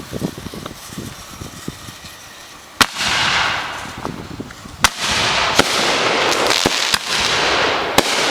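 Three loud, sharp reports from silver salute firework shells, about two and three seconds apart, with smaller pops between them and a long rushing hiss after each bang.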